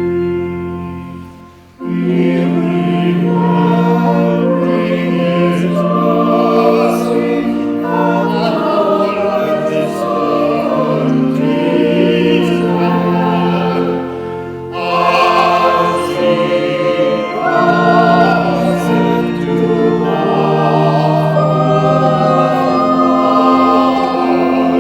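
Church choir singing in parts, phrase after phrase, with a short breath break just after the start and another about halfway through.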